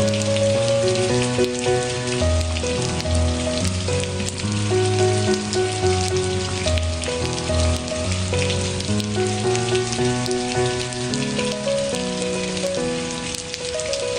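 Steady rain hiss with fine drop ticks, under slow, gentle music of held notes over a low bass line.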